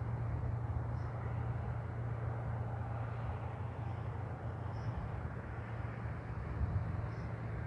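Steady outdoor ambience: a continuous low rumble with faint, short high chirps now and then.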